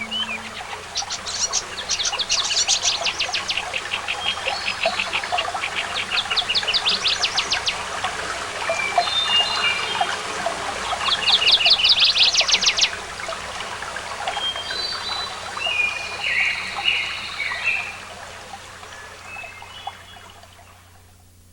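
Songbirds chirping and singing in rapid, buzzy trills of many notes, with shorter chirps between them. The sound fades out over the last few seconds.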